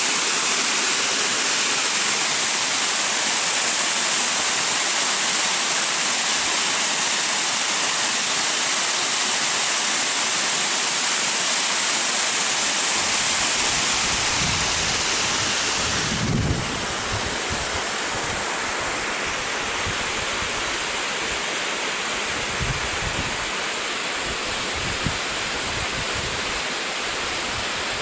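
A waterfall's steady rush of water. It gets a little quieter about halfway through, and a few brief low rumbles on the microphone come in the second half.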